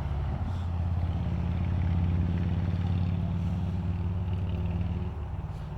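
A motor vehicle's engine running close by, a low steady hum that swells and then eases off about five seconds in.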